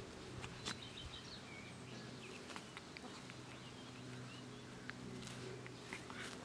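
Garden ambience: small birds chirping in short, scattered calls over a faint steady low hum, with a few soft ticks and rustles.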